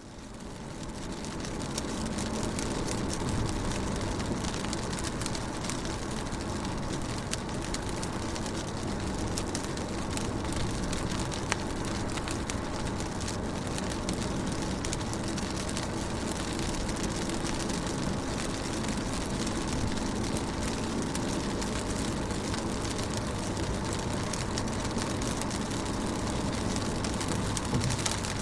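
Rain pattering steadily on a car's windows and body, heard from inside the car as a dense hiss of fine drop ticks over a low steady hum. It fades in over the first couple of seconds.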